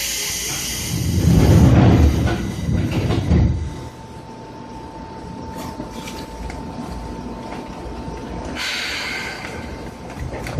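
Seibu 2000 series electric train heard from on board: a burst of air hissing, then a heavy low rumble from the running gear for a couple of seconds, then a quieter stretch with a steady thin whine, and another burst of air hissing near the end.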